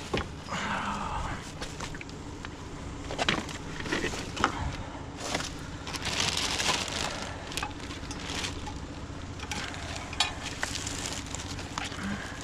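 Scattered clicks, knocks and rustling as curbside junk is handled, over a steady low hum.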